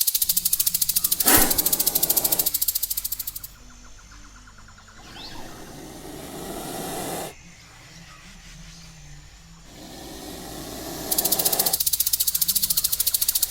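Produced jungle ambience of fast, dense insect buzzing, with a sudden loud burst about a second in. The insect sound drops out for several seconds while hissing, rustling swells rise and cut off twice, then the buzzing returns near the end.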